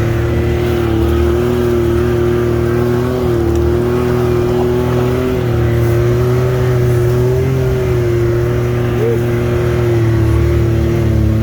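A UTV (side-by-side) engine and drivetrain running steadily under load, with a low rumble and a steady whine above it that wavers only slightly in pitch.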